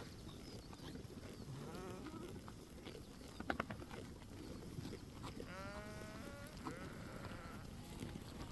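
Sheep bleating, with one long clear bleat about five and a half seconds in and a fainter one earlier. A few sharp knocks sound a little past three seconds, over a steady low rumble of background noise.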